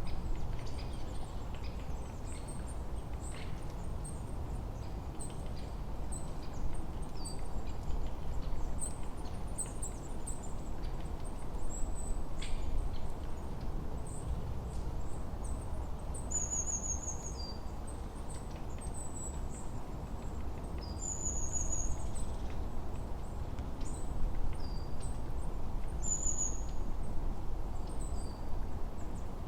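Forest birds chirping over a steady low rumble of wind. From about halfway through, one bird repeats a short, high, falling call every four to five seconds.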